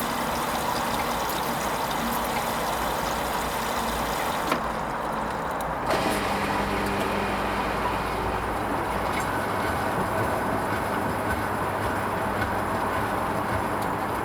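Hoover Vision HVP16 washing machine early in its Silks 30 programme: a steady rush of water filling the drum. The high hiss drops out briefly about four and a half seconds in, and a low motor hum joins from about six seconds in.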